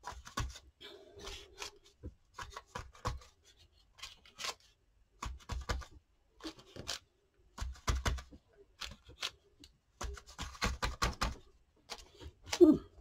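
Piece of corrugated cardboard, dipped in paint, being dabbed and pressed onto a paper journal page: a run of irregular light taps and scrapes.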